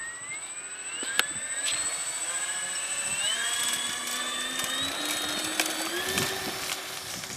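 Twin electric motors and propellers of a FlightLine F7F Tigercat RC model whining as the throttle is opened, the pitch rising steadily for about six seconds and then holding. A steady high whine sits above, with a couple of sharp clicks.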